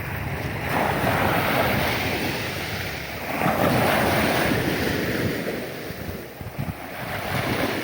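Sea waves and wind, with wind buffeting the microphone; the rushing noise swells twice and then eases.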